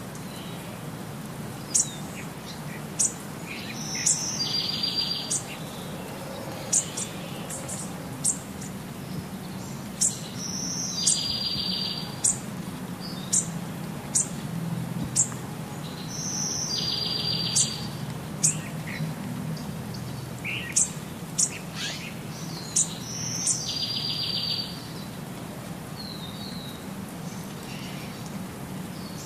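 A small bird calling: sharp high chirps every second or two, and a short buzzy trill phrase repeated about every six seconds, over a faint low hum.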